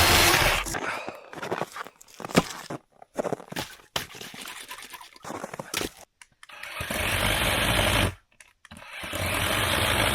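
A battery-powered chainsaw with a worn diamond-type chain runs in three cutting bursts: one ending just after the start, one about six and a half seconds in, and a longer one from about nine seconds. Sharp knocks and clatter of wood fill the gaps between the cuts.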